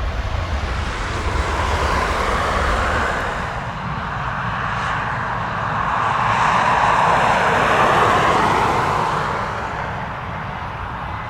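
Airliner's engines roaring as the aircraft passes by, swelling to their loudest about eight seconds in and then fading away.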